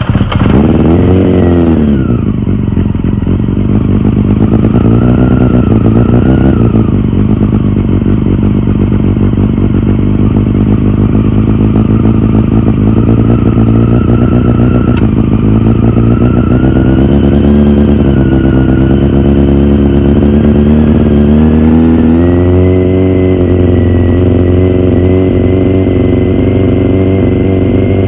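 1997 Honda CBR600F's inline-four engine running just after a cold start: one quick rise and fall in revs right after it catches, then a steady, slightly wavering fast idle. About three-quarters of the way through, the revs step up a little and hold there.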